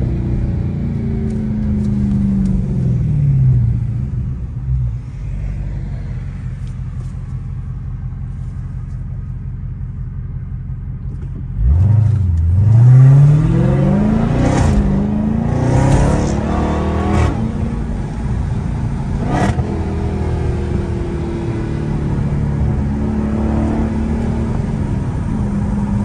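Dodge Charger SRT Hellcat's supercharged 6.2-litre Hemi V8 heard from the driver's seat. A few seconds in the revs fall away as it eases off; about twelve seconds in it gets louder and pulls hard, revs climbing steeply through several quick gear changes, then it settles into a steady cruise.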